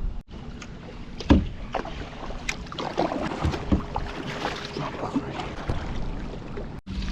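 Knocks and clicks of gear being handled on a kayak on the water, with one loud knock about a second in.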